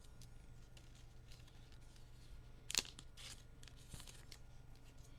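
Faint rustling and sliding of trading cards and pack wrapper being handled, with one sharp, crisp swish about two and a half seconds in.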